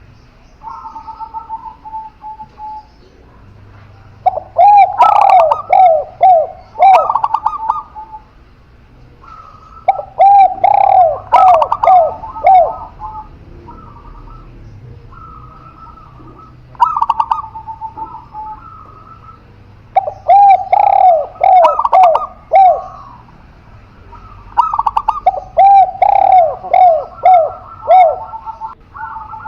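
Spotted dove and zebra dove cooing back and forth: loud bouts of quick falling coo notes come every few seconds, with softer, higher, even phrases in between.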